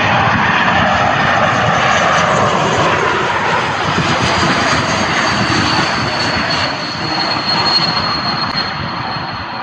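Airbus A220-100 airliner on landing, its Pratt & Whitney geared turbofan engines making a loud rushing jet noise with a high whine that falls slowly in pitch, easing off a little near the end.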